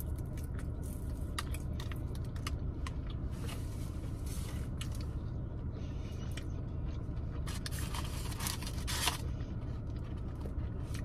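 Eating sounds: chewing and small mouth clicks while eating fried food, with rustling from the takeout tray twice, over a steady low hum inside a car cabin.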